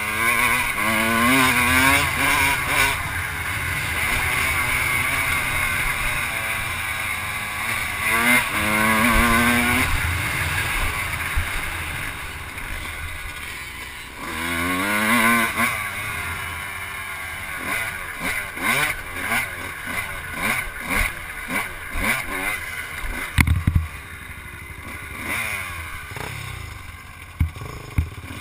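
Off-road vehicle engine accelerating hard three times, its pitch climbing in steps as it shifts up. It then runs with short repeated blips and cuts of the throttle, with two sharp knocks near the end.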